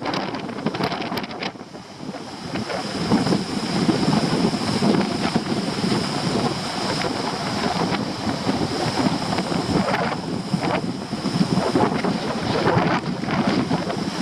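Stormy sea surf crashing and churning against rocks, with strong gusting wind buffeting the microphone.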